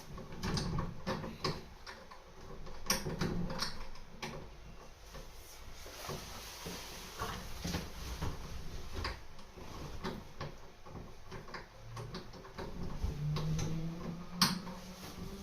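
Scattered, irregular light clicks and knocks of loft-ladder hardware and tools being handled, with a sharper knock near the end.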